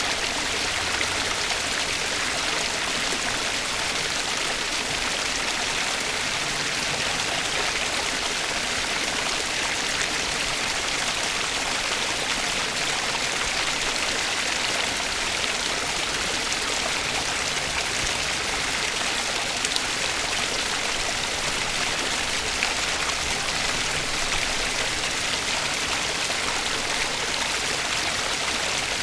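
Flowing stream water running steadily, an even rushing hiss that never breaks.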